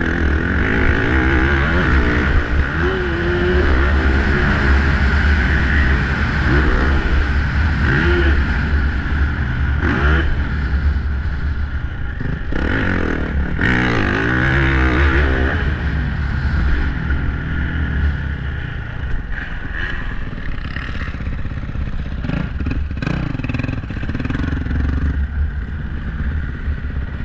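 Dirt bike engine on a motocross track, revving up and falling off again and again as the rider accelerates, shifts and rolls off.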